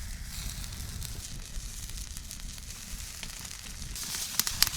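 Campfire cooking: fire crackling with a faint sizzle, and a run of sharp crackles near the end.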